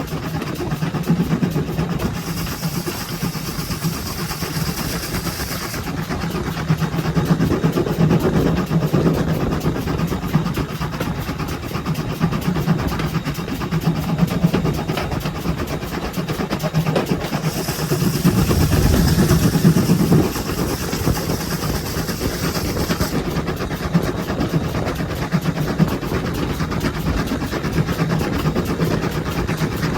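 GWR 57xx-class pannier tank locomotive 7714 running, heard from on board: a steady loud running noise with a fast rhythmic beat. Two spells of high steam hiss come in, about two seconds in for some four seconds, and again from about seventeen seconds in for some five seconds.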